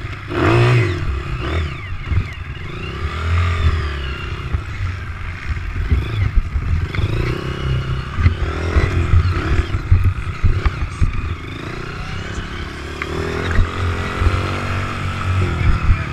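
Several motocross motorcycle engines revving and passing, their pitch rising and falling in overlapping arcs over a heavy low rumble.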